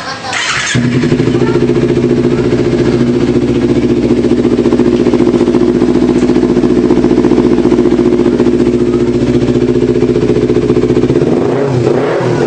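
Kawasaki Z250 parallel-twin engine running through a CLD Racing carbon full-system aftermarket exhaust. It is held at a steady raised speed with an even, rapid exhaust pulse, after a short noisy burst at the start. About a second before the end, the revs change and waver.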